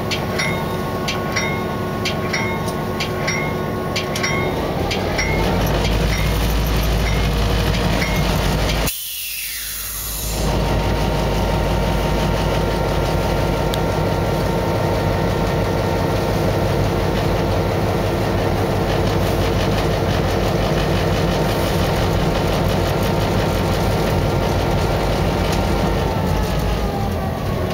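Diesel locomotive engine running steadily, heard from inside the cab as the train pulls away. The engine notches up a few seconds in and eases back near the end. A ringing strike repeats about twice a second over the first few seconds, and the sound briefly drops out about nine seconds in.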